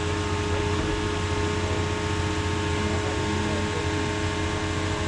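Heavy equipment engine running steadily at a constant speed, a continuous low hum.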